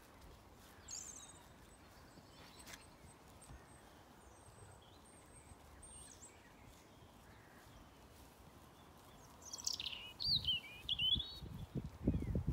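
Quiet outdoor background with faint songbird chirps. Near the end, louder quick up-and-down bird calls come in, along with several low thumps.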